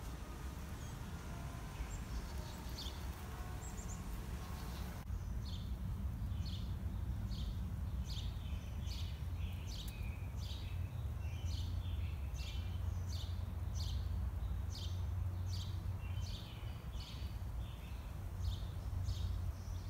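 Backyard ambience: a steady low background rumble, with a songbird calling. From about five seconds in it gives a long run of short, high chirps, about two a second.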